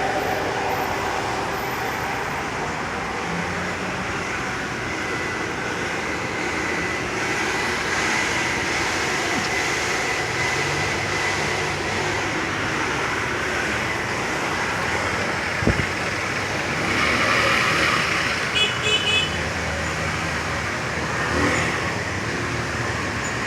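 City street traffic in the rain: a steady hiss of rain and car tyres on wet pavement as vehicles pass. A sharp knock comes partway through, and later three quick, high beeps.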